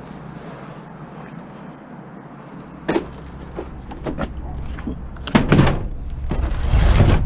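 Knocks and clunks of junk being handled and loaded, the loudest a pair of heavy thuds about five and a half seconds in, over a low rumble that starts about three seconds in.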